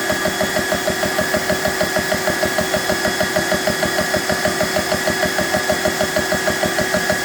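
BSA PCP high-pressure air compressor running with a steady, rapid pumping beat of several strokes a second, with the steady hum of its cooling fans underneath. It is pumping but not building pressure, which the owner puts down to a leak in the hose connections.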